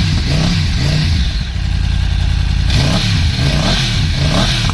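Yamaha YZF-R1 crossplane inline-four on its stock underbelly exhaust, revved in quick throttle blips. The pitch rises and falls a couple of times a second, holds steadier for about a second in the middle, then the blips resume.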